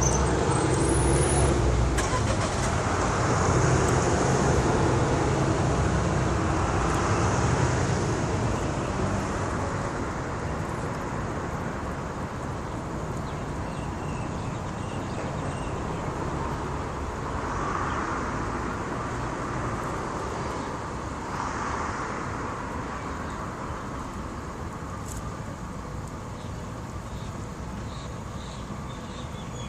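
Road traffic going by, a steady wash of car noise that is loudest at first, then eases off with a couple of smaller swells as more cars pass.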